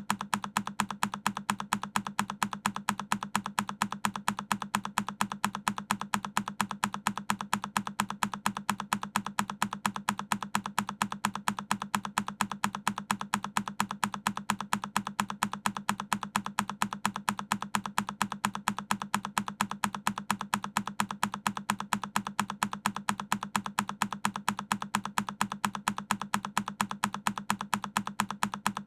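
A single key press on a Keychron K10 mechanical keyboard, looped so the same click repeats in a fast, even rhythm.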